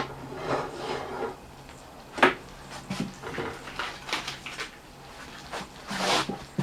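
Handling noises of cooking gear: scattered clicks and knocks with short rustles, a sharp click about two seconds in and a longer rustle near the end.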